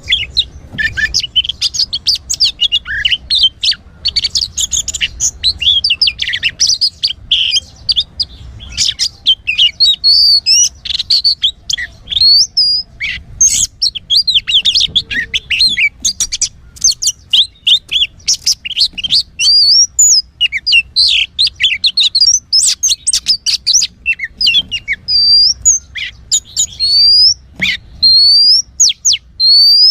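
Oriental magpie-robin (kacer) singing: a fast, unbroken run of varied chirps and short rising whistles.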